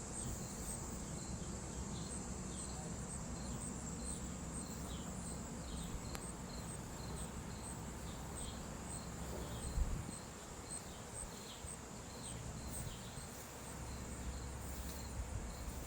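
Insects chirping in a steady chorus: a continuous high-pitched trill with regular pulses and short repeated falling chirps, over a low rumble, with a brief thump about ten seconds in.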